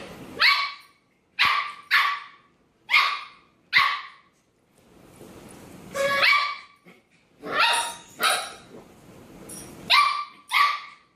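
A dog barking about ten times, short sharp barks, often in quick pairs with pauses between.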